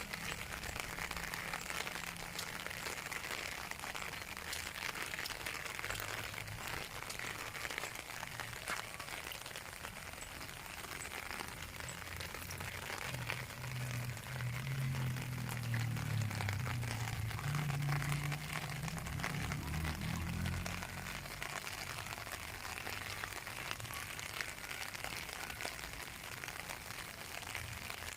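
Steady rain falling, a constant patter of fine drops. About halfway through, a low rumble swells for several seconds and then fades away.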